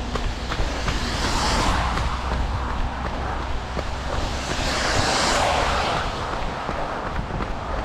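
Wind rushing over the microphone of a camera carried by a runner in the rain, a steady noise with low rumble that swells twice, about a second and a half and five seconds in.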